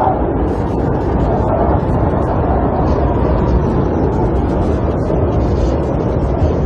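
Snowstorm wind blowing steadily against a camper, a dense low rumbling rush with no letup.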